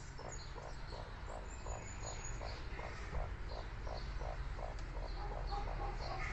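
A steady series of short, low animal calls repeating evenly about three times a second, over a low hum.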